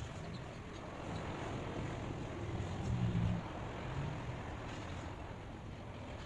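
Outdoor ambient noise: a steady hiss with a low rumble that grows louder about three seconds in, then eases off.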